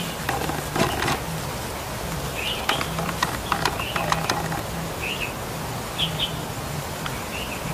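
Caged songbirds chirping, short high calls about once a second, with scattered sharp clicks and a steady low hum underneath.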